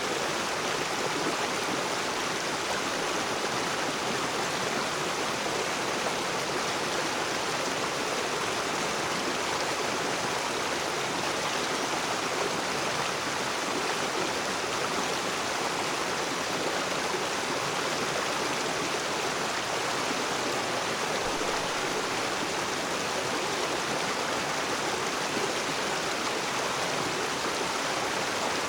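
A rocky river rushing and splashing over stones, a steady even flow of water.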